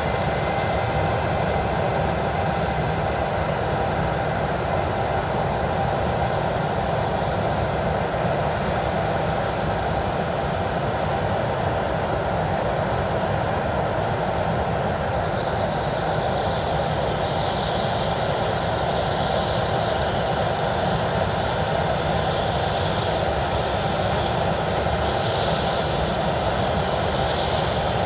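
Airbus A321 jet engines running steadily as the airliner taxis: a constant rushing noise with a thin, steady whine over it.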